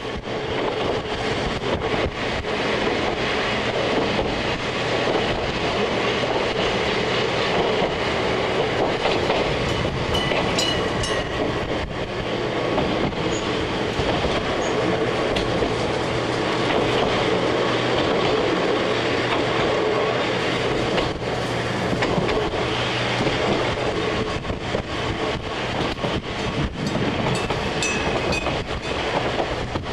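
Kumamoto Electric Railway 5000-series electric railcar heard from inside while running: steady running noise with a low hum and wheels clicking over rail joints. Brief faint wheel squeals come about ten seconds in and again near the end.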